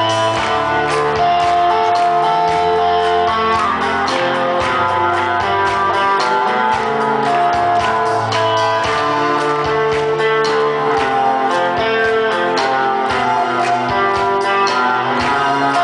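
Live rock band playing an instrumental passage led by guitars, with sustained notes over a steady drum beat.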